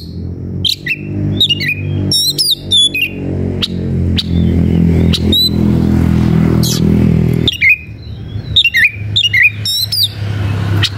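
Oriental magpie-robin (kacer) giving rapid, sharp chirps and squawks, over the steady low hum of an engine running. The hum drops away about two-thirds of the way through and returns faintly near the end.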